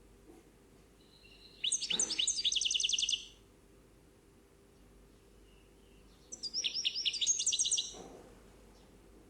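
A bird singing two phrases of fast, high trilled notes, each about a second and a half long and a few seconds apart.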